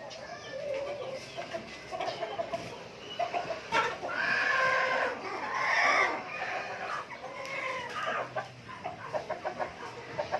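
Chickens clucking, with a rooster crowing once about four seconds in, a long loud call lasting some two seconds.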